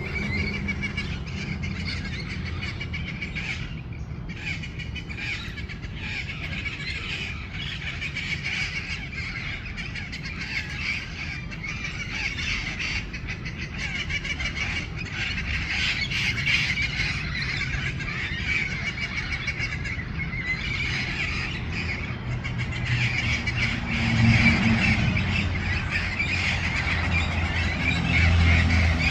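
A flock of parrots squawking and chattering continuously, many short harsh calls overlapping, with a steady low rumble underneath. The calls grow louder near the end.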